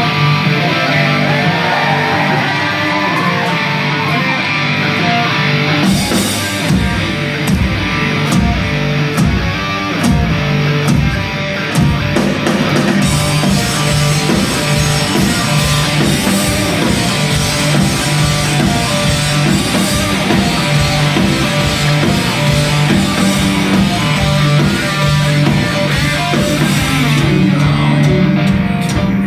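Live heavy rock band playing loudly, with distorted electric guitars over bass; drum hits come in hard about six seconds in.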